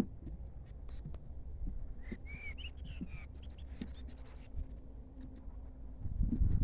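Small birds nesting inside a beehive chirping: a few short, high, sliding chirps about two seconds in, among faint clicks over a low hum. A louder low noise builds near the end.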